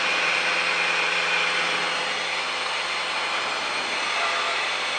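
Cessna 182 Skylane's piston engine and propeller at full takeoff power during the climb-out, a steady drone heard from inside the cockpit.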